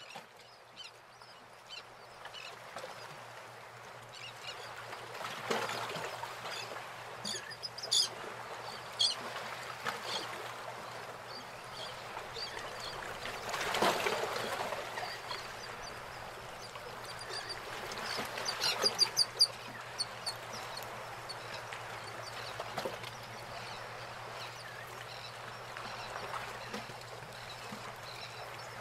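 Birds calling in short bursts of rapid high chirps, the loudest bursts about eight seconds in and again near nineteen seconds, over a steady low hum.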